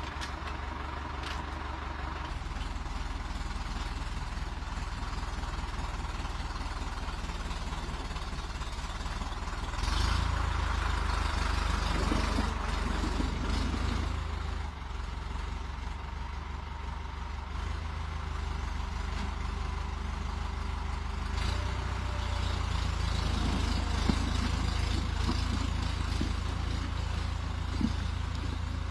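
Tractor engine running while pulling a log, a steady low drone that grows louder about ten seconds in and again about twenty-one seconds in. Two short knocks near the end.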